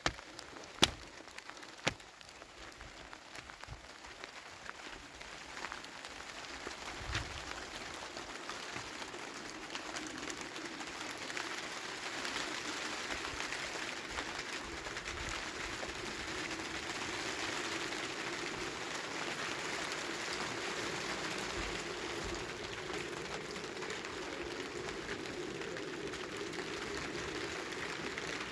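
Rain falling steadily, growing louder over the first ten seconds or so. A few sharp taps or drips sound in the first two seconds.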